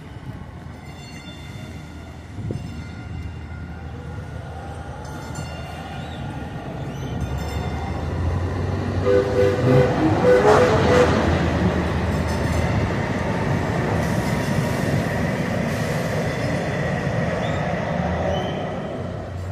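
A train running close by, growing louder toward the middle and then easing off, with a few short repeated horn tones about halfway through.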